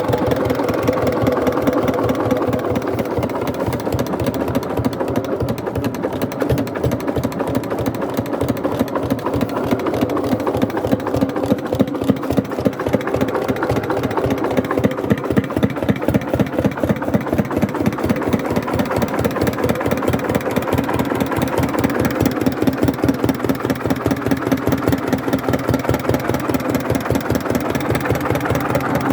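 Hatz diesel engine running steadily, with a fast, even beat of firing pulses.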